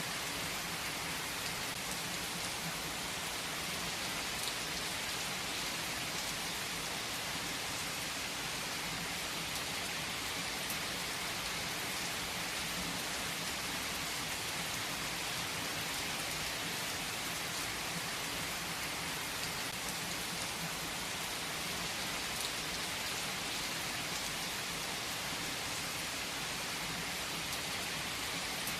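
Steady rain falling, a dense even hiss of drops with faint individual patters.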